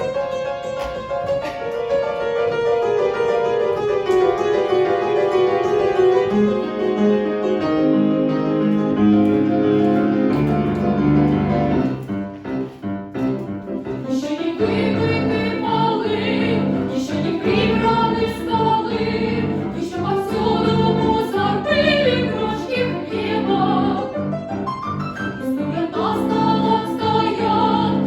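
Operetta music: singing voices with piano accompaniment. Held notes fill the first half; after a brief lull about twelve seconds in, the piano plays rhythmic chords under the voices.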